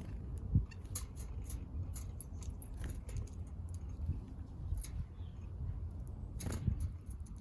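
Small backyard birds pecking at feed: irregular light ticks and taps over a steady low rumble, with a dull thump about half a second in.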